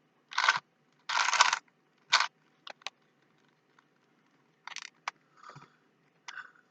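Plastic Rubik's Cube being twisted by hand: a few quick scraping turns of its layers in the first two seconds, then scattered clicks, and more turns about five seconds in.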